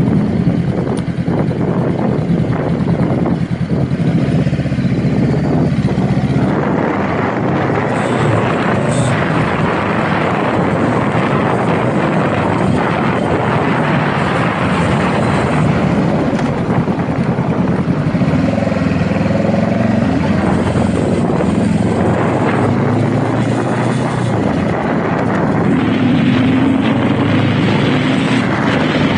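Honda Rebel motorcycle engine running on the move, mixed with wind rushing over the microphone; the engine note shifts a couple of times.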